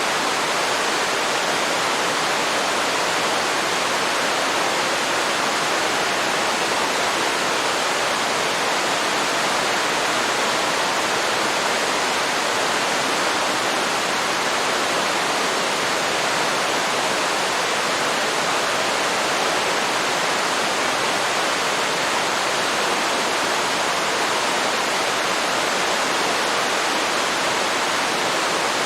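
Small waterfall pouring steadily into a river: an even, unbroken rush of falling water.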